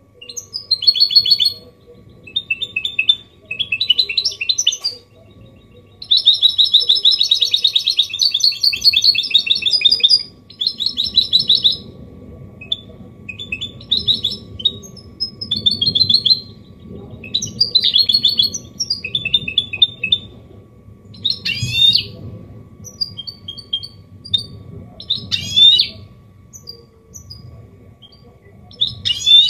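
Goldfinch mule (goldfinch hybrid) singing a Málaga-copy song: loud bursts of rapid trills and twittering phrases broken by short pauses, with a long dense rattling trill from about six to ten seconds in and quick downward-swept notes later on. A faint steady hum sits underneath.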